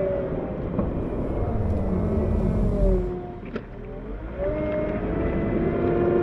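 Caterpillar 908 compact wheel loader's diesel engine working hard while pushing snow. Its pitch falls and the sound drops off toward idle about three seconds in, with a single click, then it revs back up.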